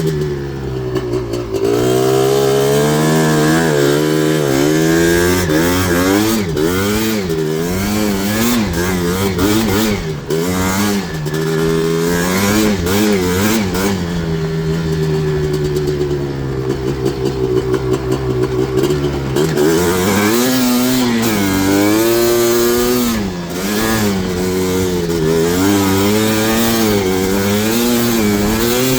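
Yamaha Blaster ATV's 240cc big-bore two-stroke single-cylinder engine, with an FMF exhaust, revving up and down over and over as it is ridden on the throttle. It holds a steadier pitch for a few seconds about halfway through, then goes back to rising and falling.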